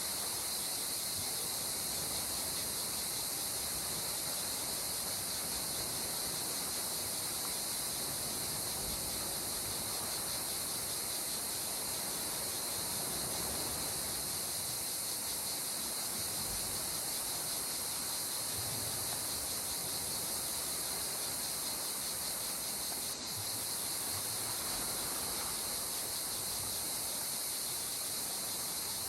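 A steady, high-pitched insect chorus, with a soft wash of gentle sea water swelling faintly underneath.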